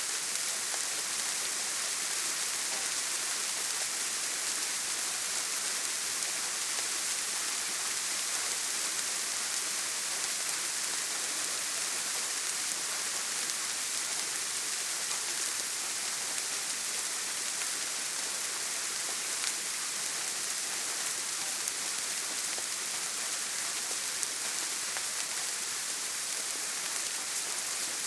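Steady heavy rain falling on a tin roof: a dense, even hiss with a few faint drop ticks scattered through it.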